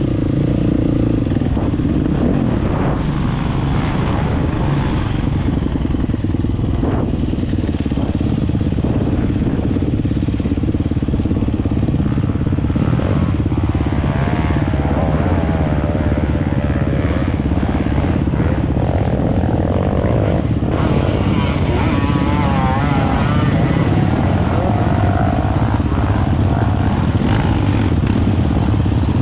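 Dirt bike engine running while riding, steady and loud, with a higher engine note wavering up and down in pitch a few times.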